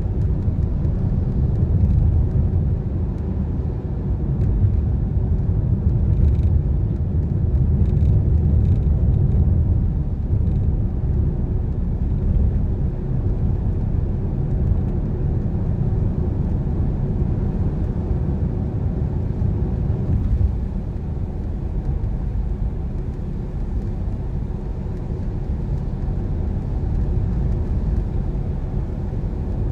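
Car driving on wet roads in rain: a steady low rumble from road and engine, with a few faint ticks between about six and eleven seconds in.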